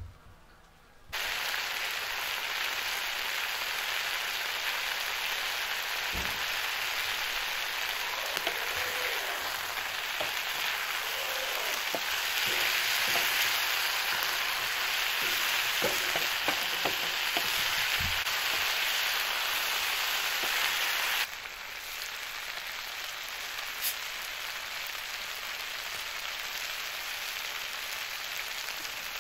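Chicken legs and onions frying in a pan, a steady sizzle, with a wooden spatula now and then knocking and scraping in the pan. The sizzle starts suddenly about a second in and drops to a quieter hiss about three-quarters of the way through.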